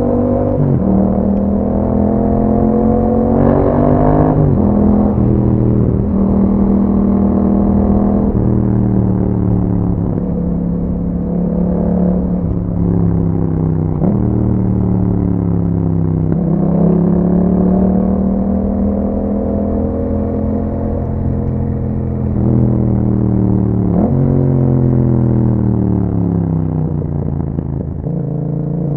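A 2021 Yamaha MT-07's 689 cc parallel-twin engine running through an Akrapovic exhaust under way. It revs up and drops sharply at each gear change about a dozen times, with stretches where the pitch sags as the throttle eases off.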